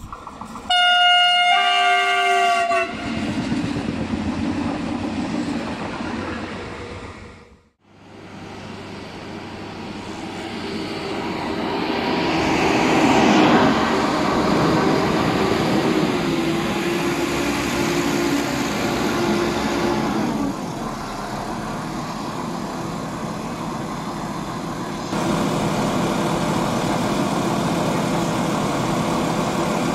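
Stadler electric multiple unit sounding a horn blast of about two seconds as it approaches, then running past. After a break, a 711-series diesel multiple unit rolls in alongside, with a steady whine that stops about two-thirds of the way through as the train slows to a halt, its diesel engine then running steadily.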